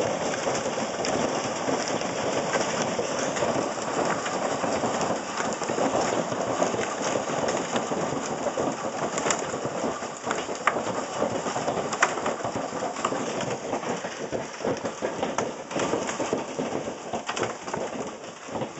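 Hail pelting down in a heavy storm: a dense, steady rattle of countless hailstone impacts, with a few sharper, louder hits standing out.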